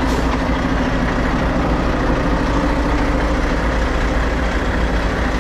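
Mack truck's diesel engine running steadily at low speed, with a short hiss right at the start.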